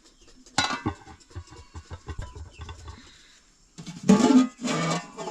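Music played on a plucked string instrument, strummed, growing louder near the end.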